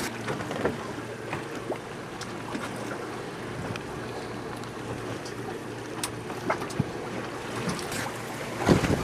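Wind buffeting the microphone and water splashing along a Laser sailing dinghy's hull as it sails, with scattered light knocks and a louder rush of wind and water a little before the end.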